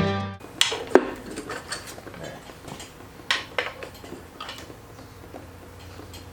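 Scattered metallic clinks and taps of hand tools against engine parts, with one knock about a second in ringing briefly. The knocks thin out after the first few seconds, leaving a low steady hum. Background music cuts off right at the start.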